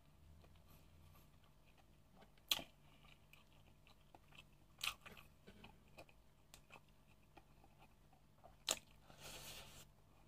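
Faint close-up chewing of a mouthful of mutton biryani, with three sharp wet clicks, about two and a half seconds in, again near five seconds and near the end, the last followed by a short rustling hiss.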